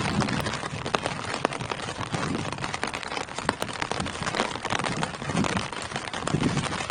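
Steady rain falling on tree leaves: an even hiss of rain with many individual drops ticking sharply.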